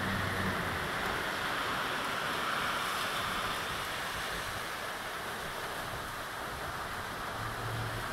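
Heavy rain pouring down in a steady, even rush, with a faint low hum near the start and again near the end.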